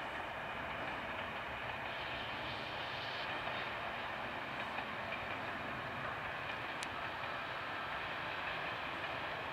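Distant passenger train hauled by a class 242 electric locomotive, rolling along the line as a steady wash of running noise, with a single faint tick about seven seconds in.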